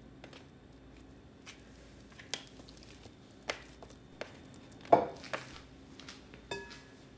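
Irregular knocks and clinks of kitchen items being handled and set down, the loudest about five seconds in; one clink near the end rings on briefly like ceramic or glass.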